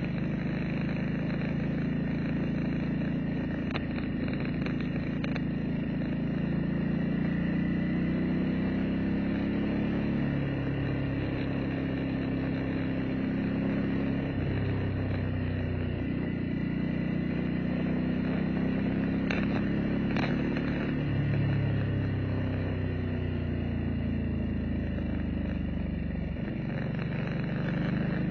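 Motorcycle engine running while riding along a road, its pitch rising and falling several times with changes of speed and gear, over a steady hiss.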